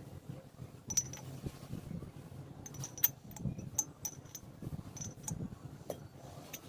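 Scattered light metal clicks and clinks, as of small metal parts or tools being handled, over a low steady hum.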